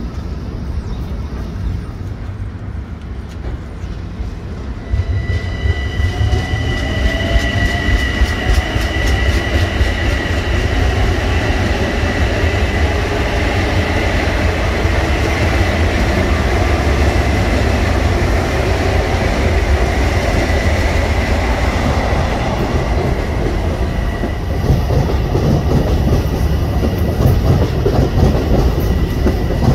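Eight-car Bombardier M7 electric train passing at speed, its wheels rumbling and clicking over the rail joints. A steady high whine comes in about five seconds in as the train reaches the microphone and holds while the cars go by.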